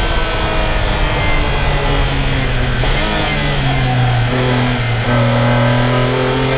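BMW E46 M3's S54 straight-six heard from inside the cabin, its pitch falling steadily as the car brakes hard and downshifts for a corner. About five seconds in the engine note turns and starts rising again as full throttle comes back on.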